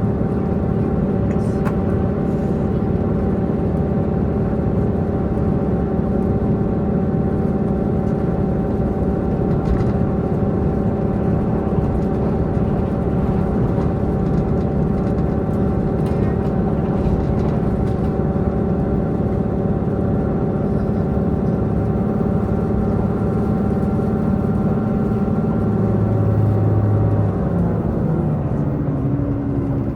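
Diesel multiple-unit express train's diesel engine running steadily at speed, several steady tones over the rumble of wheels on track, heard from inside the carriage. Near the end the engine note drops.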